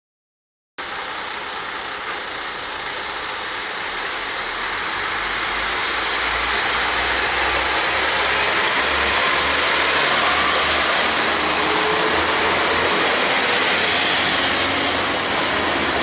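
Network Rail multi-purpose vehicle (MPV) pair on railhead treatment duty running past close by: diesel engine rumble under a loud rush of wheel and rail noise, growing louder over the first half and then holding steady.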